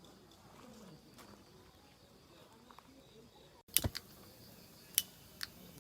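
Faint background, then, a little past halfway, a brief dropout followed by a few sharp clicks: two close together, a louder one about a second later and a weaker one after it.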